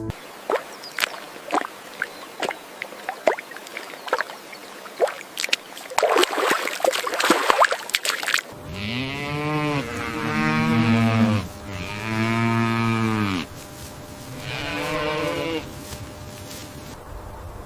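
Cattle mooing: several long, low calls in the second half, the last one fainter. Before the calls there are scattered sharp clicks and rustling.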